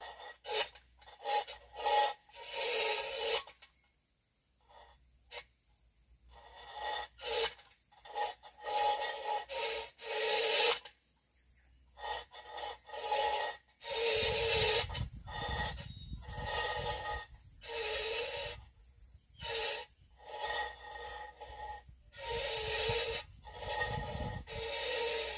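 Tin can rattled in repeated irregular bursts, some short and some over a second long, with a rasping metallic ring, used as a noise to scare monkeys away.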